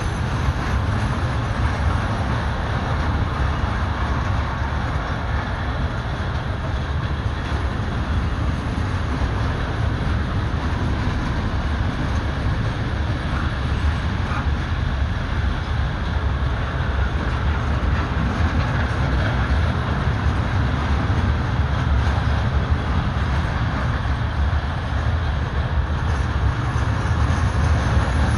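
Loaded coal freight train hauled by an ET41 electric locomotive rolling past, its wagons making a steady low rumble.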